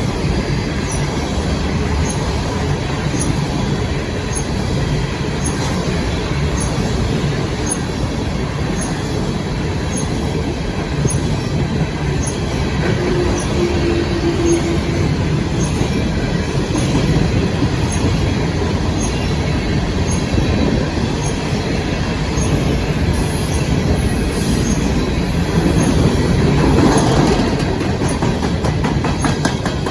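CSX coal train rolling past: a steady, loud rumble of freight cars on the rails with faint, evenly spaced clicks. A short steady tone sounds near the middle, and the noise swells a little near the end.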